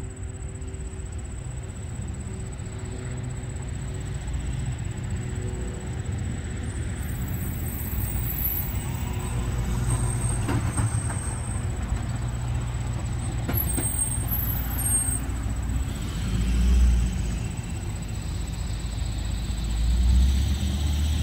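Distant diesel freight train approaching with a low rumble that slowly grows louder. Cars pass close by, with two louder whooshes near the end.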